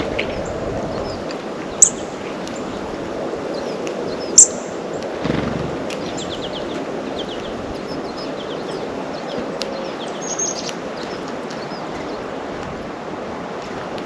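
Small songbirds at a feeder giving short high chirps and calls, including a quick run of falling notes, over a steady outdoor hiss. Two sharp clicks stand out, about two and four and a half seconds in.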